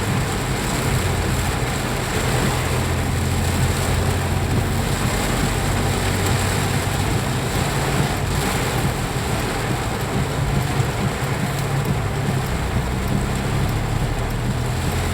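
Steady rain, with the low, even hum of a motor vehicle running underneath it.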